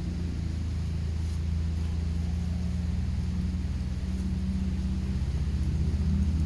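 A vehicle engine idling steadily, a low hum with an even pulse.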